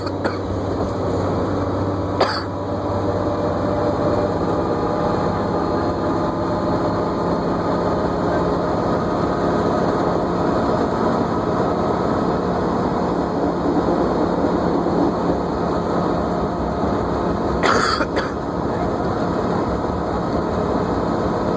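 New Flyer D40LFR diesel transit bus underway, heard from inside: a steady drivetrain whine over the engine drone. Short sharp knocks or rattles break in about two seconds in and again in a brief cluster near the end.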